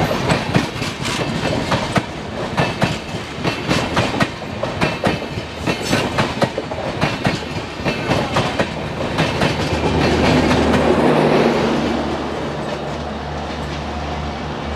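Passenger coaches of an Indian Railways express train running past at speed, their wheels clattering rapidly over rail joints. About ten seconds in the clatter gives way to a smoother rush as the last coach passes, and a steady low hum remains near the end.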